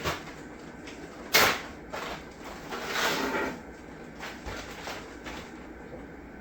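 Chopped celery, onion and carrot being added to a stockpot of broth: a sharp knock about a second and a half in, then a rustling, sloshing tumble of vegetables, followed by a few light clicks and taps.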